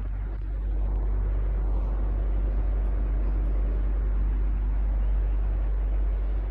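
Electric fan running steadily: an even rush of air over a deep, constant hum, a little louder from about a second in.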